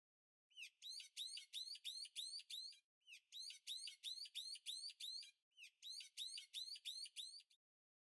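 Rapid high-pitched chirping, about four to five chirps a second, in three bursts of roughly two seconds each with short gaps between them.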